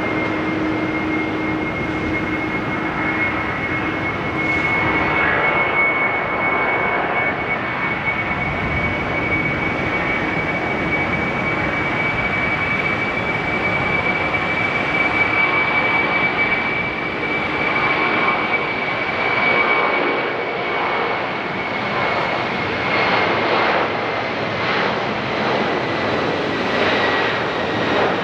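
Jet airliner's engines as the plane passes: a broad steady rush with a high steady whine that drops slightly in pitch near the end, and a fluttering, wavering quality in the second half.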